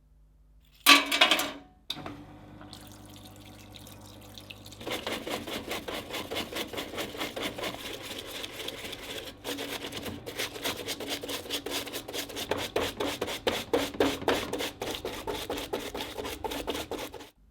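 Rubbing strokes worked by hand on the old padlock's metal parts, a long run of quick, even strokes, as in cleaning off rust. A short, loud noise comes about a second in.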